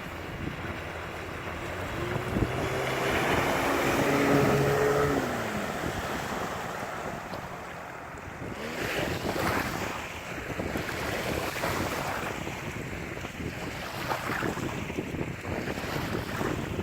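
A Yamaha 30 outboard motor on an inflatable boat running past, heard through heavy wind on the microphone. Its tone grows to a peak about four seconds in and then drops in pitch and fades, and waves splash after it.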